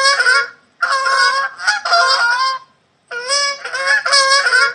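Goose honking: rapid runs of loud, nasal honks in three bouts, each about a second and a half long, with short pauses between.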